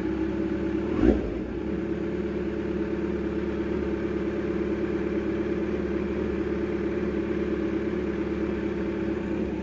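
Kawasaki Z900's inline-four engine idling steadily while it warms up after a cold start, with one brief louder burst about a second in.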